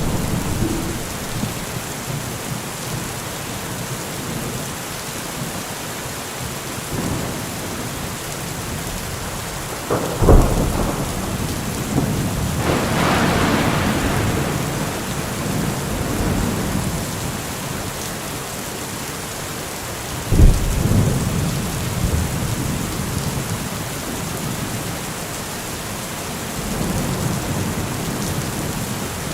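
Heavy rain falling steadily. There are two sudden low thumps, about ten and twenty seconds in, and a brief swell of louder hiss between them.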